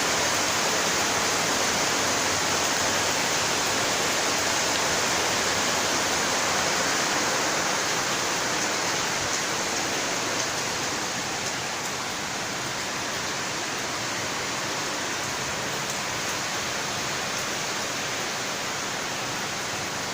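Heavy rain falling steadily, a dense even hiss that eases slightly about halfway through.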